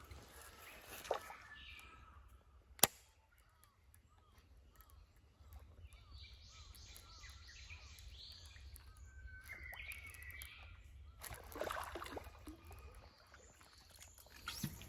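Birds chirping and calling over a low steady rumble of outdoor background noise, with a single sharp click about three seconds in and a short rustle near the end.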